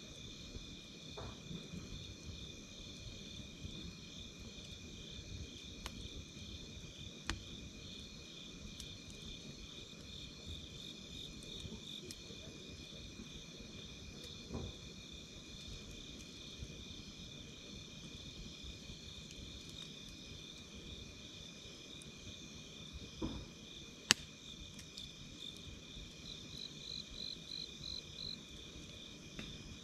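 Night insects chirping steadily at two high pitches, one of them pulsing rapidly. Campfire wood pops and crackles now and then, with one sharp, loud pop late on. Near the end a second insect adds a quick run of higher chirps.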